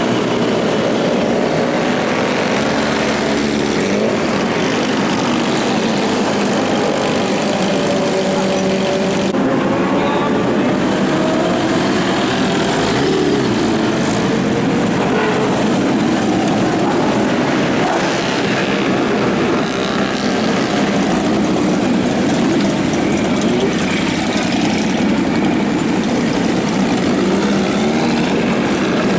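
Several large sport motorcycle engines running at once, revving up and down as the bikes pass, over a continuous rumble of traffic.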